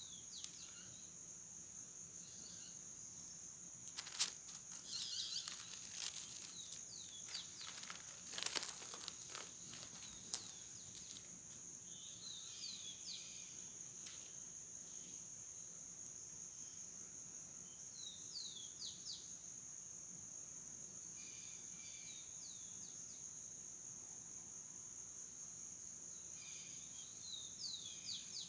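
Countryside ambience: a steady high-pitched insect drone, like crickets, with short runs of quick bird chirps every few seconds. Between about four and ten seconds in, a spell of crackling and rustling clicks stands out as the loudest sound.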